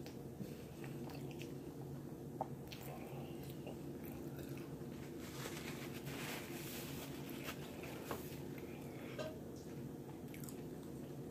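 A person chewing and biting into breaded chicken tenders, with soft crunches and scattered wet mouth clicks over a steady low hum.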